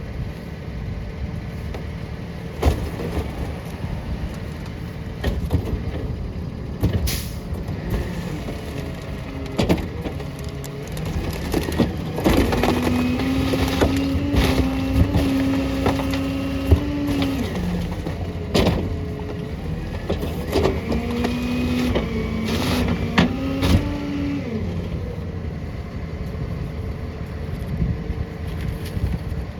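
Rear-loader garbage truck at work: the engine runs steadily under scattered knocks and bangs of recycling landing in the hopper. About halfway through, a steady hydraulic whine rises over the engine for about five seconds, then again for about three seconds, as the packer blade cycles and compacts the load.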